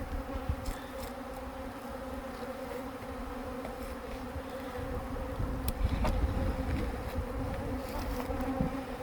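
Swarm of honey bees buzzing close by: a steady, dense hum that holds one pitch, with a low rumble underneath.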